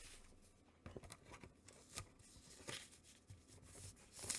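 Faint handling of comic books: a few soft taps and rustles, about a second apart and louder near the end, over near silence.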